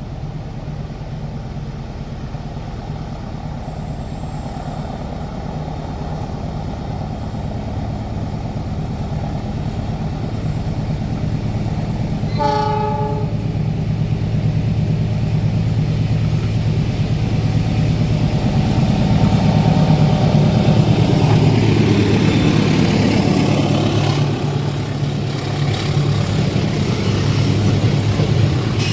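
An approaching train with a diesel locomotive: a steady engine drone grows louder, with one short horn blast about twelve seconds in. Later the engine and a rushing rail noise swell as the train draws level.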